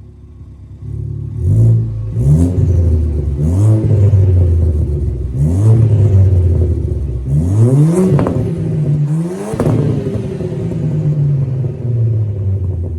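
Ford Fiesta ST engine through a new 2J Racing side-exit stainless exhaust, idling and then blipped in about six quick revs that rise and fall back, settling to idle near the end.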